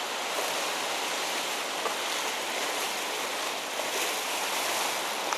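Steady sea surf with some wind, an even wash of noise.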